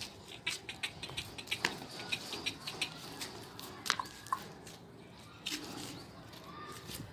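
Goats in a pen: irregular hoof taps and knocks, with a couple of short, faint calls about halfway through and near the end.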